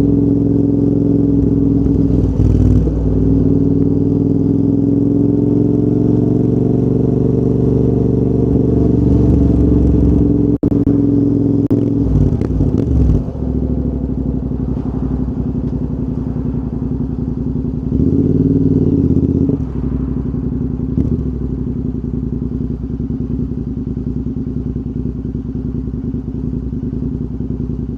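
Royal Enfield Interceptor 650's 648 cc parallel-twin engine running through a full TEC exhaust system, its pitch drifting gently as it pulls along. About halfway through it drops off in level. A short rev follows a little later, and then it settles into a steady, lower even note.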